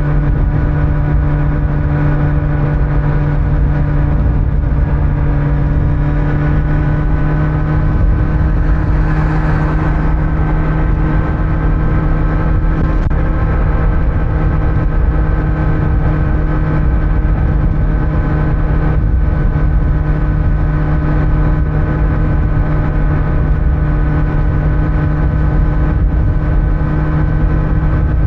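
Kawasaki Z900's inline-four engine running at a steady cruise through its stock exhaust, with wind and road rumble. A brief hiss passes about nine seconds in.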